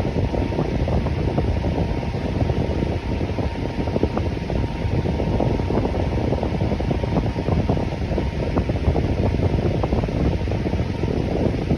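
Electric fan running steadily: a dense, low rush of moving air with a faint steady whine above it.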